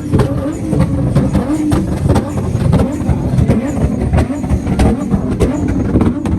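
Loud, rough car engine noise with frequent sharp cracks at irregular intervals.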